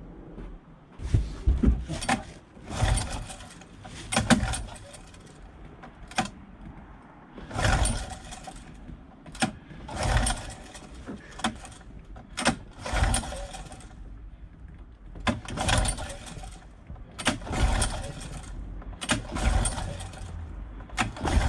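Recoil starter of a Honda outboard motor being pulled again and again, about every second or two, each pull turning the engine over with a short rasp without it catching: the motor will not start.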